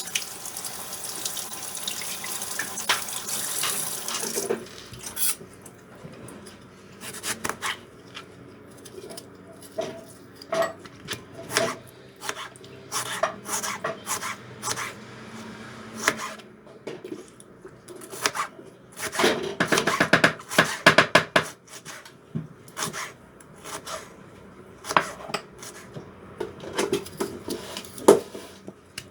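Kitchen work sounds: water runs from a tap for about the first four seconds, then dishes and utensils clink and knock at irregular intervals.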